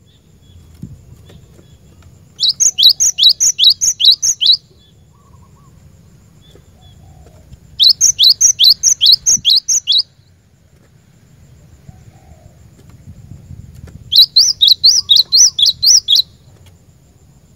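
A cinereous tit (glatik batu) singing in three bouts a few seconds apart. Each bout is about two seconds of quick, loud, high notes that each fall in pitch, about four a second.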